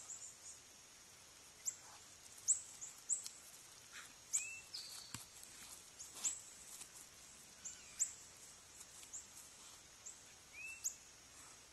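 Faint, short, high bird chirps, scattered irregularly, with a single sharp click about five seconds in.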